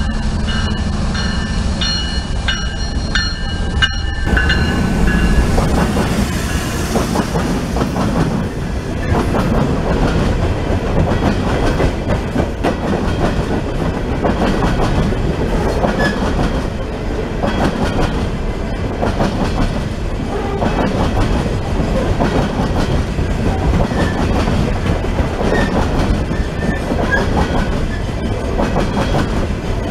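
Freight train cars rolling past, their wheels clicking steadily over the rail joints. For about the first four seconds a pulsing high ringing sounds before it cuts off.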